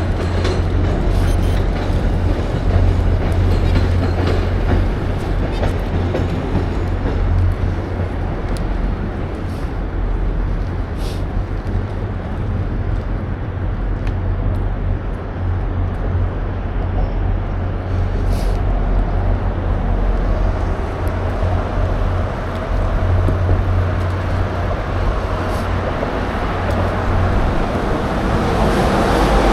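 Steady wind rumble on the microphone of a moving bicycle, with road and tyre noise and a few faint clicks.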